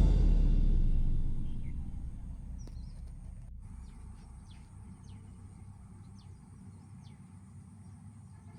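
A low rumble fades out over the first two seconds, leaving faint outdoor background noise with a few short bird chirps.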